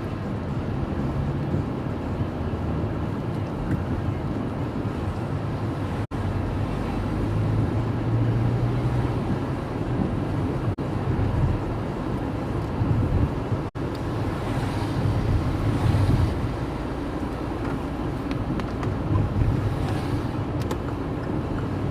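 Car running along a wet road, heard from inside the cabin: a steady low engine and tyre rumble. A couple of seconds of louder hiss come partway through, and the sound cuts out for an instant a few times.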